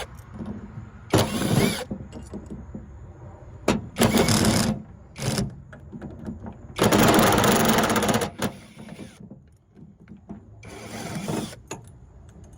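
Torx screws being backed out of a Stripmeister wire stripper's housing with a driver, in five short bursts, the longest about a second and a half, near the middle.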